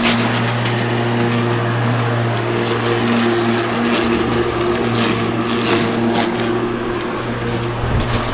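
Ozito PXC 36V cordless lawn mower running, its electric motor and blade giving a steady hum while cutting grass, with a rushing noise of grass and clippings over it.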